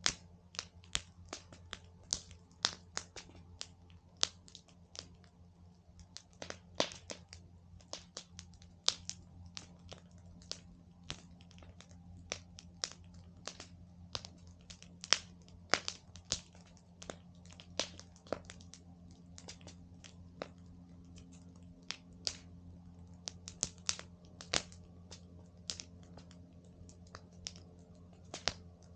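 Wood campfire crackling: irregular sharp pops and snaps from the burning logs, several a second and some much louder than the rest, over a faint steady low hum.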